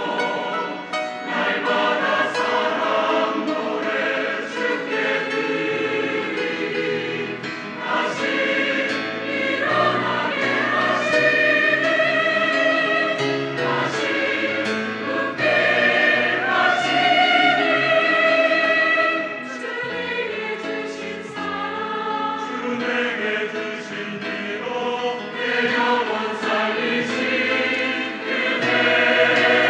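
Church choir singing a Korean gospel anthem in full voice, with sustained held chords.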